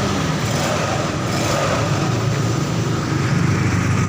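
GY6 scooter engine idling steadily after its two valves were lapped to cure a loss of compression and hard starting.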